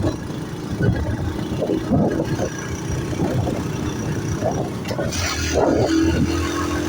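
Motorbike engine running while riding, with road and wind noise, a steady hum that grows a little louder about five seconds in.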